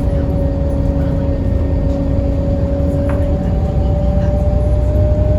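Scania L94UB bus's DSC9 nine-litre six-cylinder diesel engine running steadily under way, with a low rumble. Over it, a whine rises slowly in pitch as the bus gathers speed, and a lower hum drops out a little over halfway through.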